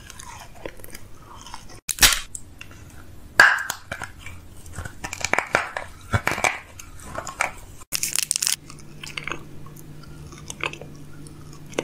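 Close-miked eating sounds: chewing and sharp crunching, with crushed ice being crunched in the middle, in a run of short clips. A faint steady hum sits under the last few seconds.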